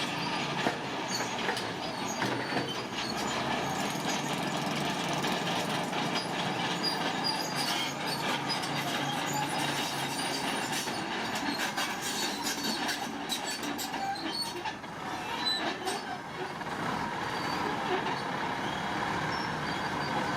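Heavy earthmoving machinery at work: a steady mechanical din with metallic squealing and many sharp clanks.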